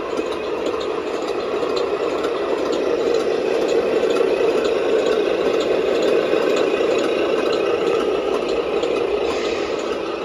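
1/14-scale radio-controlled model truck running, with a steady rattling, engine-like sound that swells slightly in the middle.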